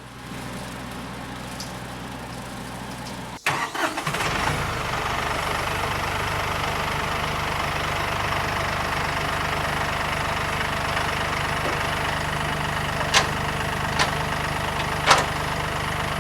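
Massey Ferguson 1835E compact tractor's diesel engine starting: about three and a half seconds in it sputters and catches, then settles into a steady idle. Three short sharp clicks are heard near the end.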